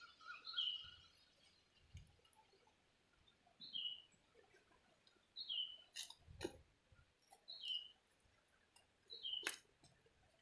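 A bird repeating a short call that falls in pitch, five times about every two seconds, with a few sharp clicks in between.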